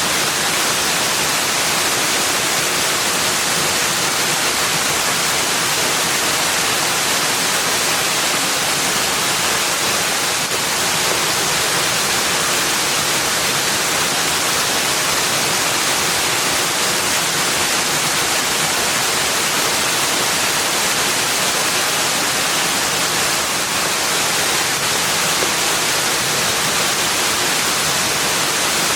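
Steady, even rushing of flowing water, unbroken and constant in level.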